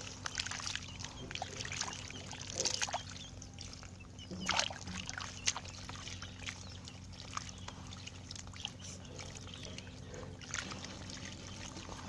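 Water being poured and trickling during washing by hand, with irregular splashes and small knocks.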